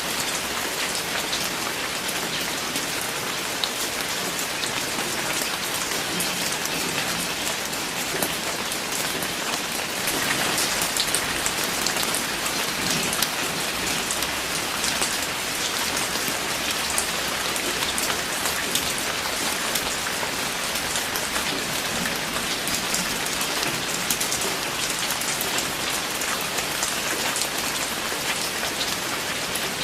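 Steady rain falling, with a dense hiss and many individual drops ticking on a surface; it grows a little heavier about ten seconds in.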